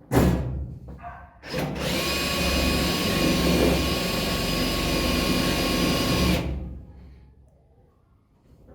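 Handheld power tool motor: a short burst at the start and a brief blip, then about five seconds of steady running with a whine, winding down near the end.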